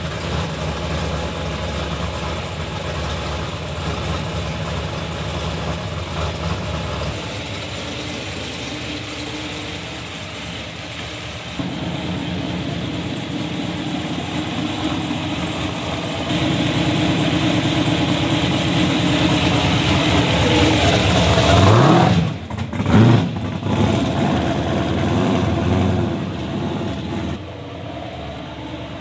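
A Dodge Charger's supercharged V8 running with a lumpy idle, then pulling away under throttle and getting louder. Two sharp revs about two-thirds of the way through are the loudest part, and the sound drops off near the end as the car drives away.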